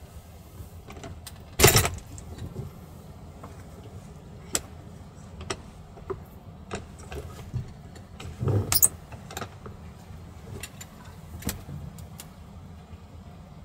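Scattered small clicks and knocks of things being handled, with one loud thump about two seconds in and a short clatter around eight and a half seconds, over a steady low rumble.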